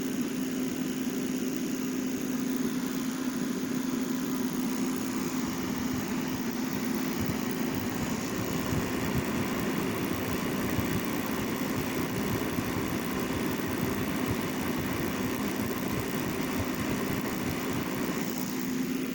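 Heat Star portable propane heater running, its fan and burner giving a steady low hum over an even rush of air.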